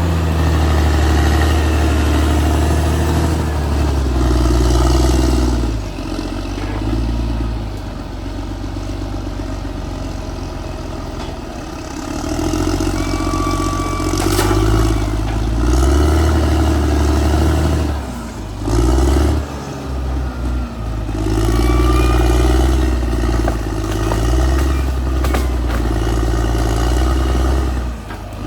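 Caterpillar D6R XL bulldozer's diesel engine working under load, its pitch and loudness rising and falling as the blade pushes. It drops back to a quieter, lower run for several seconds about a fifth of the way in, then comes back up. A few short squeals and clanks sound over the engine.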